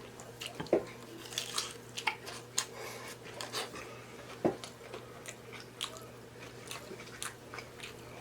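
Close-up chewing of a loaded taco with a hard nacho cheese taco shell: irregular crunches and wet mouth clicks, a little louder about a second in and again near the middle.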